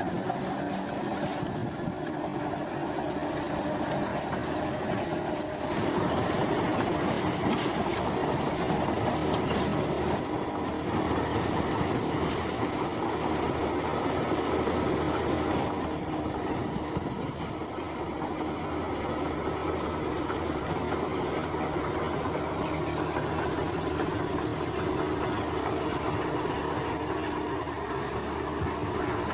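Komatsu crawler bulldozer working: a steady diesel engine hum with a high metallic squeal and clatter from its steel tracks.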